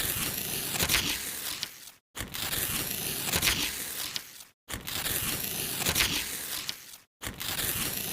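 Perfume packaging being unwrapped and handled: crinkling and tearing with sharp little clicks. It comes in stretches of a couple of seconds, broken three times by abrupt gaps of dead silence.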